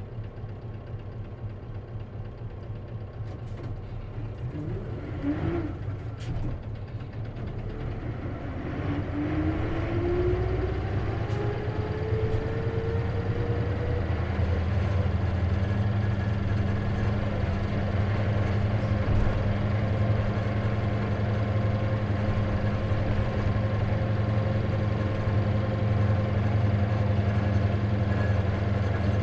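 Isuzu KC-LV380N manual-transmission city bus heard from inside: the engine runs low, then the bus pulls away with a whine rising in pitch as it gathers speed, settling into a steady drone. The bus makes an abnormal noise, which the uploader thinks can occur on manual-transmission buses.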